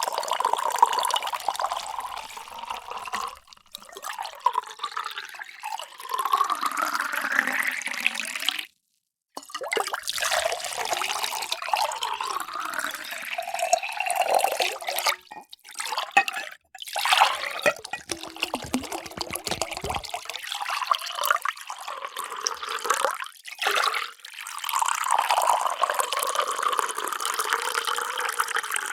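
Water pouring into containers in a series of short takes, each cut off abruptly. In one take the pitch rises as the vessel fills.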